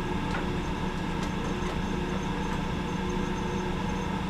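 South Bend 14½ metal lathe running steadily under power feed, its gearing making a constant hum as the tool takes a turning cut on a shaft at a slowed feed rate.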